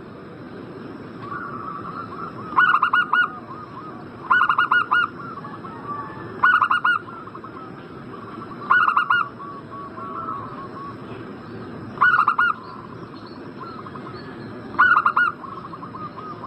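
Zebra dove (perkutut) cooing: six loud bursts of rapid repeated coo notes, one every two to three seconds, with softer trilled cooing in between.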